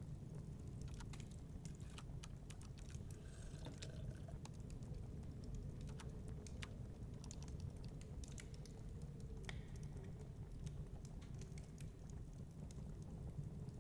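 Wood fire in a fireplace crackling, with irregular snaps and pops over a steady low rumble.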